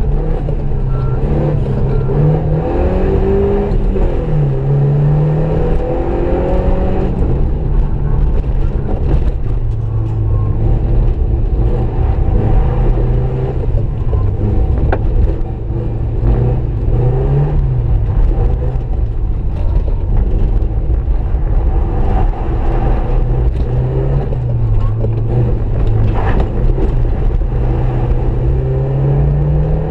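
Subaru Impreza's flat-four boxer engine heard from inside the cabin, driven hard on a rally stage. The engine note climbs and falls again and again as the car accelerates and eases off.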